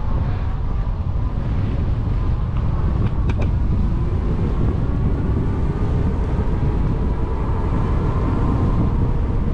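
Steady rumble of wind buffeting the microphone and tyres rolling during an e-bike ride, with a faint steady whine and a couple of light clicks a little over three seconds in.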